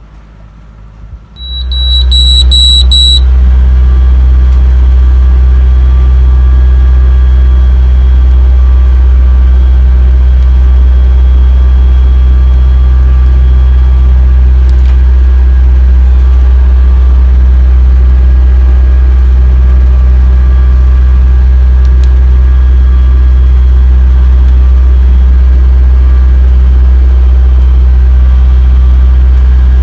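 Sailing yacht's inboard engine running steadily under way, a loud, even low hum with no change in pitch. A short run of high beeps sounds about two seconds in, as the hum sets in.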